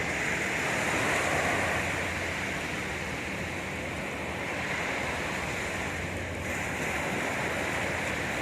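Sea surf washing onto a beach: a steady rushing of waves that swells slightly about a second in.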